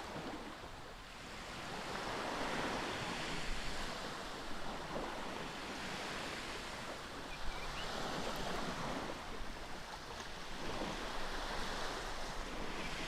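Outdoor rushing noise that swells and eases every few seconds, with no distinct events.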